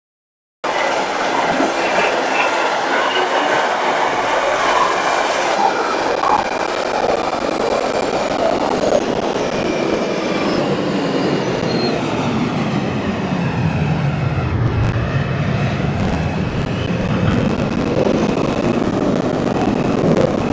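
R142 subway train running, its motor whine falling steadily in pitch as the train slows, then rising again as it picks up speed, over steady wheel-and-rail noise with some wheel squeal. The sound cuts in abruptly about half a second in.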